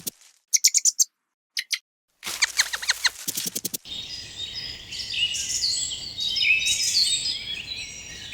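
Birds calling: short bursts of rapid high chirps, then a quick run of pulsed calls, and from about halfway through a dense chorus of many birds chirping and twittering at once.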